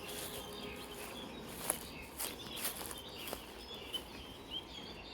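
Faint outdoor ambience with small birds chirping in the distance and a few light clicks and rustles spread through it.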